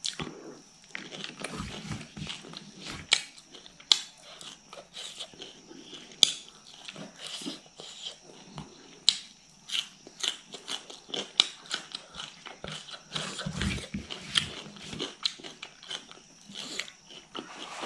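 Close-up eating sounds of a person chewing mouthfuls of rice and fish curry eaten by hand, with many sharp, wet mouth clicks and lip smacks at an uneven pace.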